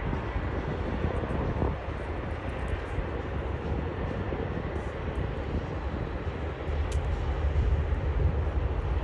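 Qantas jet airliner taking off, its engines at takeoff power making a steady rushing noise over a deep rumble that swells louder near the end.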